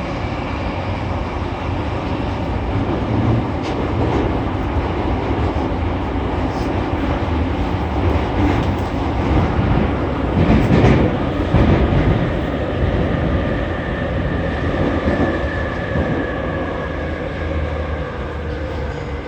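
Running noise inside a JR East E231 series 800 commuter train in the subway tunnel: steady wheel-and-rail rumble as it runs into the station. Near the end a faint falling motor whine is heard as the train brakes to a stop.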